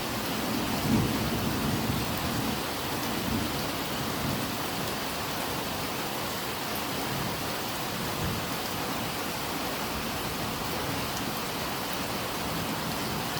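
Steady rain, with a low rumble of thunder in the first few seconds that dies away.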